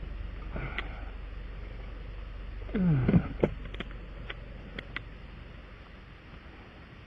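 Steady low drone of a vehicle cabin while driving, with scattered light clicks and rattles. About three seconds in, a short tone falls in pitch; it is the loudest sound.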